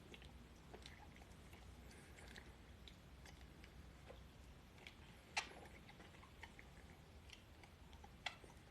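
Near silence with faint wet mouth clicks from chewing a sour lolly, and two sharper clicks about five and eight seconds in.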